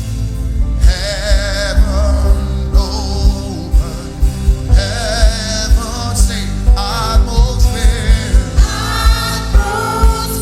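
Gospel worship music: voices singing with vibrato over a band with a steady, heavy bass drum beat.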